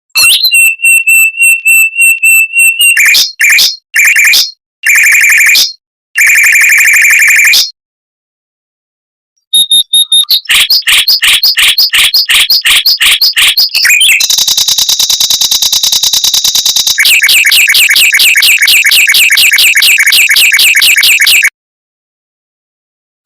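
Mockingbird singing fast, closely spaced rolls of repeated high notes. There are several short phrases, a pause of about two seconds, then one long run that includes a held buzzy trill in its middle. The song stops a couple of seconds before the end.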